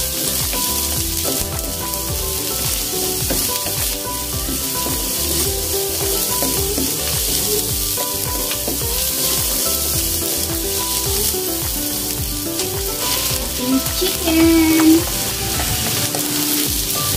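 Garlic sautéing in hot oil in a pan: a steady sizzle, stirred now and then. There is a short louder tone about fourteen seconds in.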